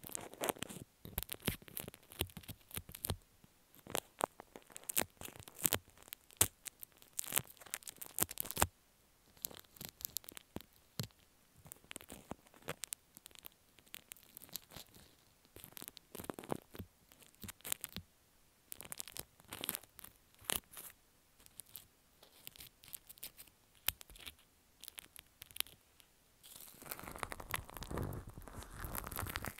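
Slime being squished and pulled close to the microphone, making sticky clicks and crackles. They come thick at first and thin out, then give way to a denser, continuous squelching rustle near the end.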